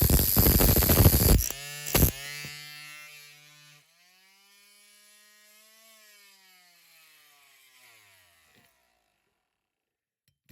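Small power tool cutting into the metal of a diecast base plate, a loud grinding noise that stops about a second and a half in. After a click, the motor's whine dies away, fading out by about eight seconds.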